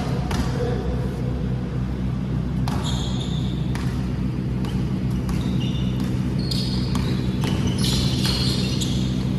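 A basketball bouncing on an indoor court, with scattered impacts and short high squeaks, over a steady low hum.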